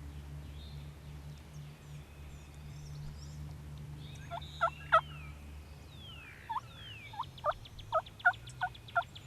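Wild turkey calling: a couple of sharp notes near the middle, then a run of about ten short, evenly spaced notes, roughly three a second, toward the end.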